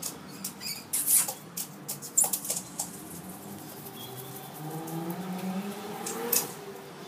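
A pet bird moving close to the microphone: a run of sharp clicks and rustles, then a few seconds of low, wavering voice-like murmuring.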